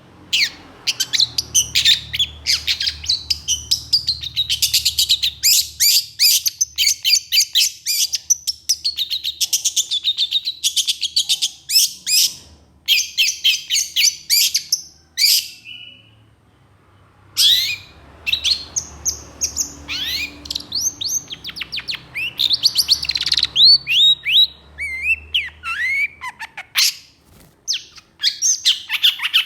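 Long-tailed shrike (cendet) singing in fast runs of harsh, rapidly repeated notes. There is a short break about halfway through, then more varied phrases with rising and falling notes.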